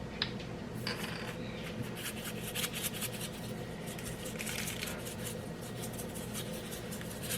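A knife spreading frosting over a cake, a run of short scraping and rubbing strokes.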